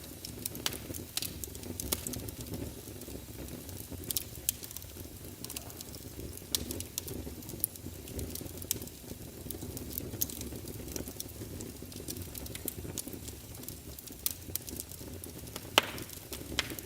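Wood fire burning in a fireplace: a steady low rumble of flames with frequent sharp crackles and pops, and one louder pop near the end.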